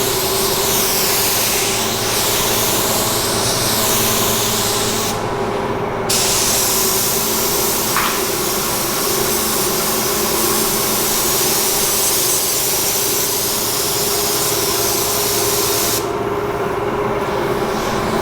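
Compressed-air gun hissing in two long bursts, about five and ten seconds long, with a short break between them and a steady hum underneath.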